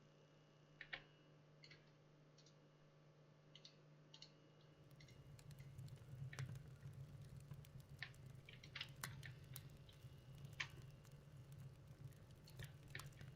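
Near silence with faint, scattered sharp clicks and ticks, more of them in the second half over a low steady hum.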